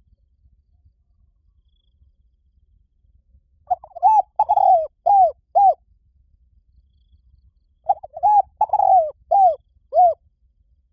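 Spotted dove cooing: two phrases of about five short coos each, every note rising and falling in pitch, the first phrase starting about four seconds in and the second about eight seconds in.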